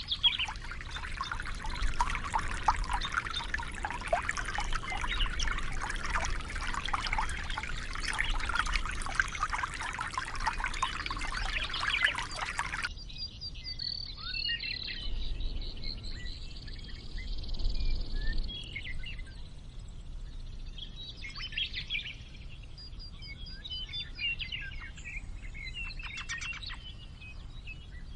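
Water running or pouring steadily, which cuts off suddenly about thirteen seconds in. Then birds chirping and singing in short scattered calls.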